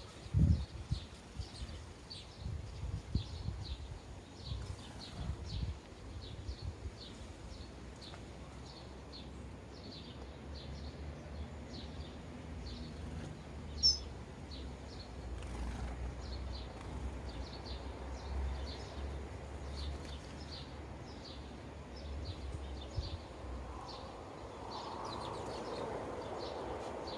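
Sparrows chirping at a feeder: a steady run of short, high chirps, about one or two a second, over a low rumble.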